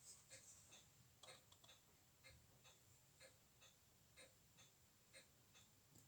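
Faint, regular ticking of a timepiece, about two ticks a second, over low hiss with a faint steady high whine.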